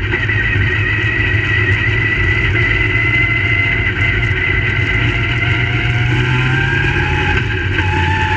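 Crate late model race cars' V8 engines running on the track: a loud, steady drone of several engines, with one tone rising slightly about six seconds in.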